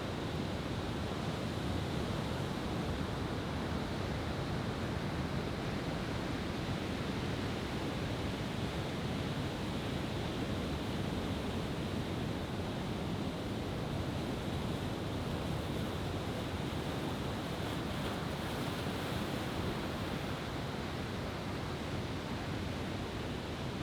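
Steady wash of ocean surf breaking on a beach, with no firework bursts.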